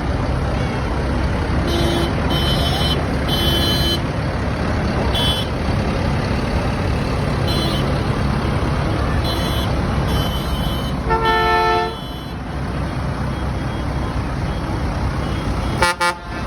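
Tractor engines running, with several short high-pitched toots, a horn sounding for about a second around eleven seconds in, and a short loud horn blast near the end.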